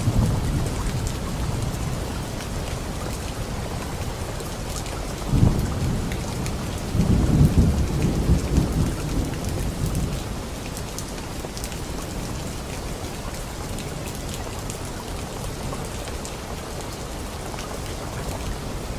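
Steady rain falling on leaves, with rolling thunder: a sudden crack about five seconds in, then a longer loud rumble that dies away by about ten seconds, leaving only the rain.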